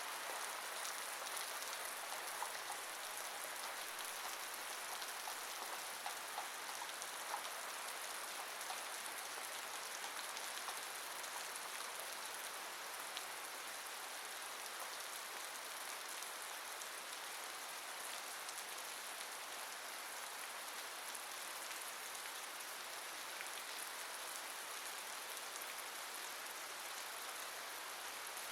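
Steady rain falling, an even hiss with scattered small drop ticks, slightly more of them in the first few seconds.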